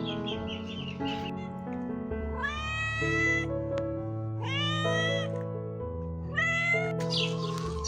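A domestic cat meowing three times, each meow rising in pitch and then held briefly, over steady background music.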